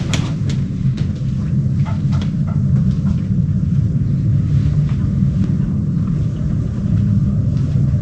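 Steady low rumble of a cruise ship under way, heard inside a cabin, with a few faint clicks in the first few seconds.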